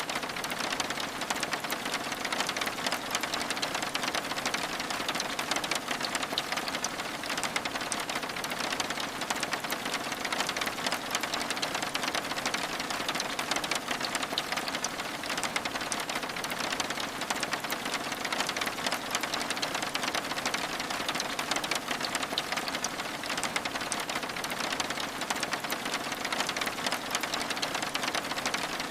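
Steady rain, a dense patter of drops over an even hiss, unchanging throughout.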